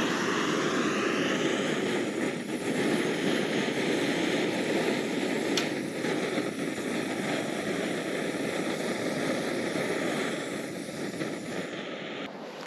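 Small canister gas stove burner alight under a percolator coffee pot, giving a steady hiss with a faint rising whine as it settles at the start. Near the end the higher part of the hiss drops away.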